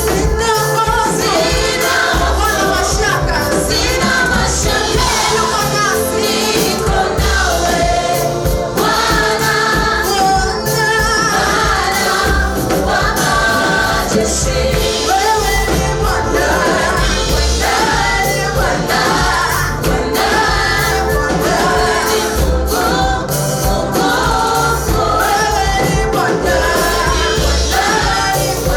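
Gospel choir singing with instrumental accompaniment and a steady low beat.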